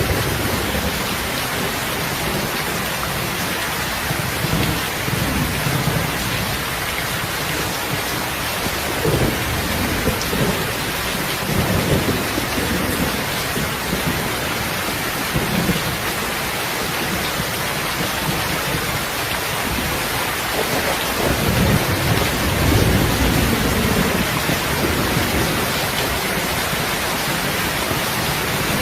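Steady heavy rain with low rumbles of thunder rolling in several times, the longest and strongest about two-thirds of the way through.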